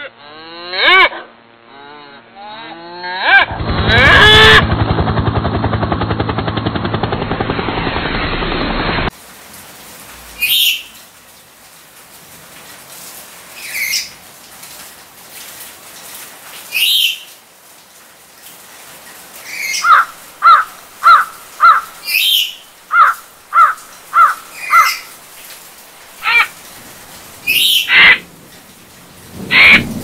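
A dairy cow mooing in loud, drawn-out calls, the longest lasting about six seconds. Then, after a cut about nine seconds in, a perched bird calling: scattered high calls and a quick run of about eight short chirps.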